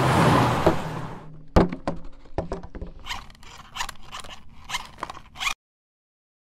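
A loud rushing swell with a low hum that fades away, then a sharp thunk followed by a run of irregular clicks and short scraping noises, which cut off suddenly into silence near the end.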